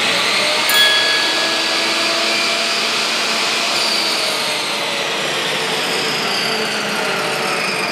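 Benchtop table saw running at full speed with a steady motor whine, cutting through a block of scrap wood.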